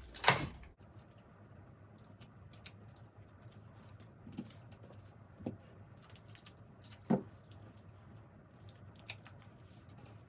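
Small items being handled and set down: a brief loud rustle about half a second in, then scattered light clicks and knocks, three of them clearer than the rest.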